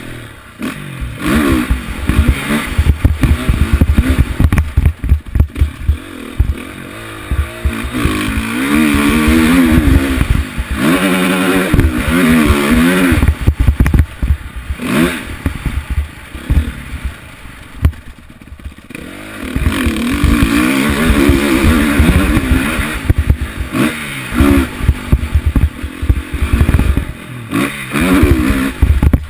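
Onboard sound of an off-road vehicle's engine on a motocross track, revving up and down over and over as the throttle opens and shuts, with short lulls between bursts. Rattles and knocks from the machine over rough ground run under the engine.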